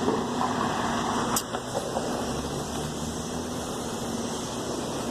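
Downtown street traffic: vehicle engines running with a steady hum, and one short click about a second and a half in.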